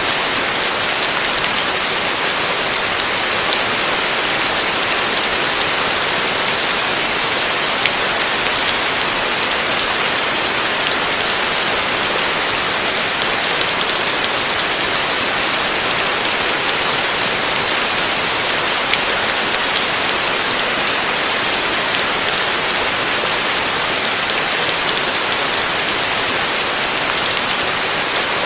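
Heavy rain falling on a roof: a steady, dense hiss of drops with no letup.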